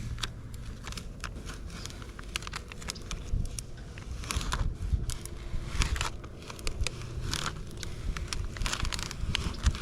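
Paper decal backing and vinyl decal being handled and peeled: irregular crackling and crinkling with scattered sharp clicks, and a few louder rustles about four and six seconds in.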